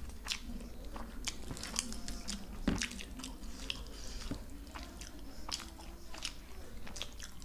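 Chewing and mouth sounds of people eating luchi with potato and paneer curry, with irregular small smacks and clicks.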